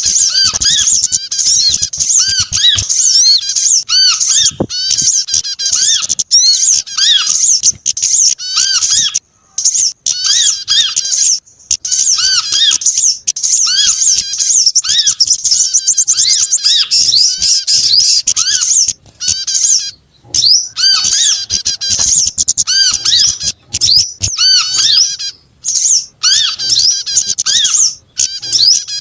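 A dense, layered chorus of small songbirds. Rapid, high chirps and twitters overlap almost without a break, in a mixed bird-lure recording of several small species.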